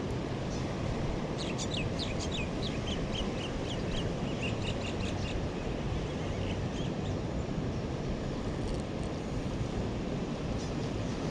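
Birds chirping: a quick run of downward-sweeping calls about a second in, then a string of short repeated notes, dying away after a few seconds. A steady rush of surf and wind carries on underneath.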